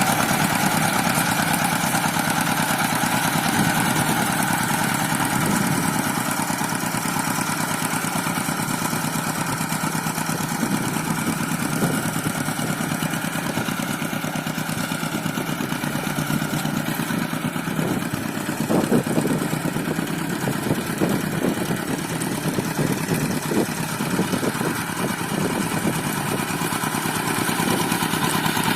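Two-wheel hand tractor's single-cylinder diesel engine running steadily, with a stretch of uneven clatter from about two-thirds of the way through.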